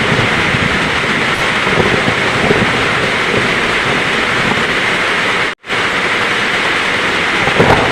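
Heavy rain falling steadily with a low thunder rumble underneath. The sound cuts out completely for a split second about two-thirds of the way through, like a splice in a looped track.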